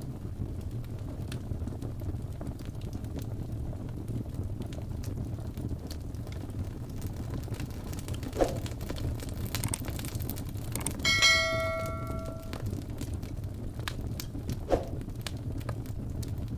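Fire crackling over a steady low rumble, with two louder pops about 8 and 15 seconds in. About 11 seconds in, a single metallic bell-like ding rings out and fades over about a second and a half.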